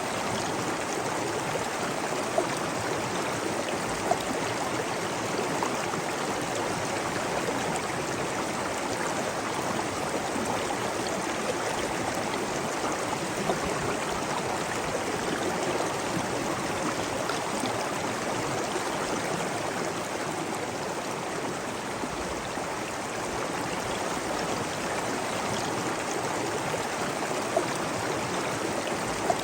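Steady rushing of flowing water from a stream or waterfall, with a few brief louder splashes.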